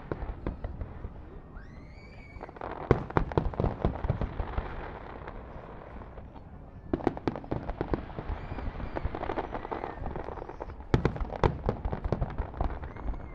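Aerial fireworks display: many sharp bangs with dense crackling between them, coming in three waves, the loudest reports about three seconds in and again around eleven seconds.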